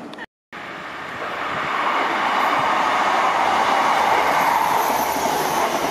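Electric train running past along the platform, its rail and wheel noise building over the first couple of seconds and then holding steady. A brief break in the sound just after the start.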